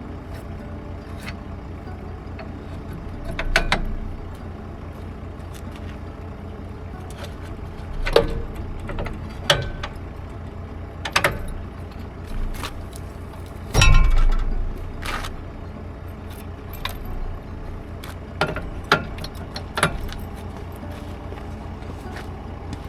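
An engine idling steadily, with scattered metallic clinks and clanks over it and one heavy thump about fourteen seconds in.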